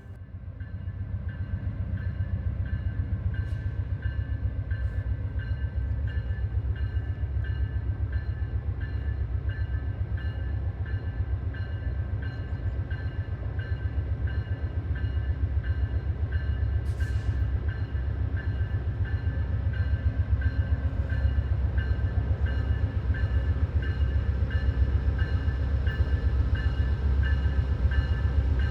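Passenger train led by an Amtrak P42DC diesel locomotive pulling out of the station: a steady low rumble that grows a little louder near the end.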